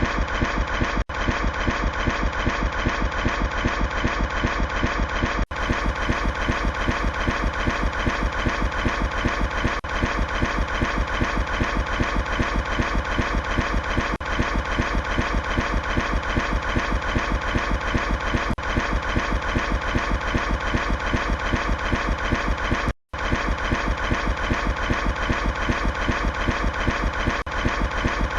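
An engine running steadily with a fast, even chugging beat. It cuts out for a moment about three quarters of the way through.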